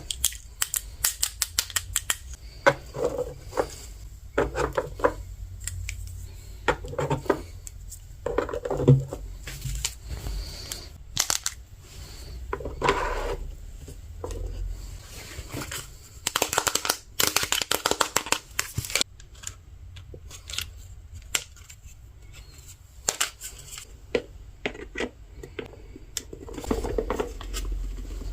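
Plastic toy parts and packaging being handled during an unboxing: many sharp clicks and taps, with a longer crinkly rustle of plastic about two-thirds of the way through.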